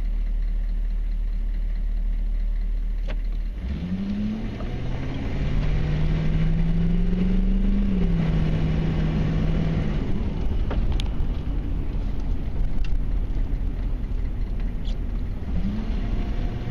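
1994 Chevy Silverado K1500's 6.5-litre turbo diesel V8 running steadily, then revving up about four seconds in. Its pitch climbs for several seconds, then drops back, leaving a steady rushing noise as the truck keeps moving.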